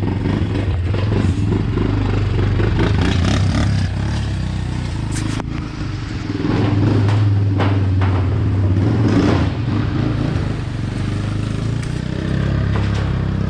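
A vehicle engine running steadily under way, with a few knocks and rattles over the drone.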